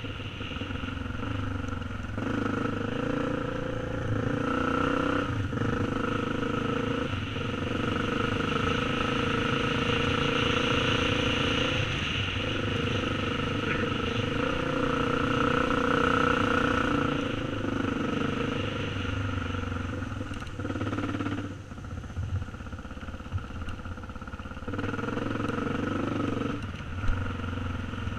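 Yamaha TT350 single-cylinder four-stroke engine ridden at steady throttle along a dirt trail, the throttle eased and reopened several times. It drops to a lower, rougher note for a few seconds past the two-thirds mark, then pulls again. A sharp knock comes near the end.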